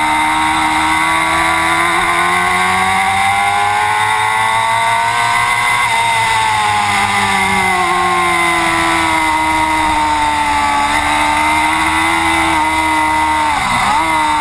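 Superbike racing motorcycle engine running hard at high revs, its pitch rising slowly for about six seconds and then falling away, with one quick sharp dip and recovery near the end.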